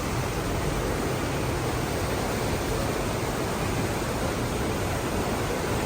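Waterfall's falling water: a steady, even rush that does not change.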